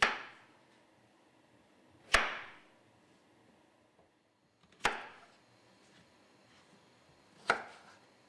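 Four sharp knocks or impacts, evenly spaced about two and a half seconds apart, each dying away over about half a second.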